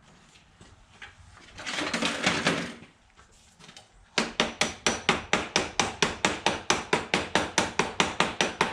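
A hammer tapping a worn battery terminal clamp down onto the battery post: a quick, even run of sharp metal taps, about five a second, that starts about four seconds in. Before it, a short scraping rustle about two seconds in.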